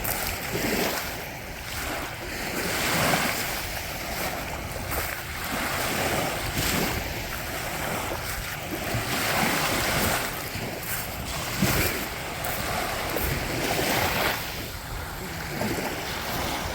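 Small Lake Erie waves washing in and out on a rocky beach, swelling and ebbing every second or two, with wind buffeting the microphone.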